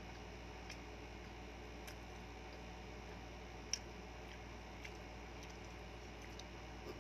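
Quiet eating by hand: soft chewing and mouth sounds with faint scattered clicks and one sharper click a little before four seconds in, over a steady low hum.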